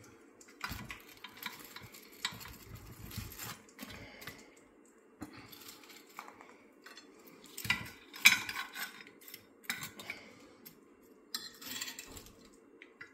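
Metal utensils and cookware clinking and knocking in irregular bursts, loudest about eight seconds in, as fried chicken pieces are moved into a dish, over a faint steady hum.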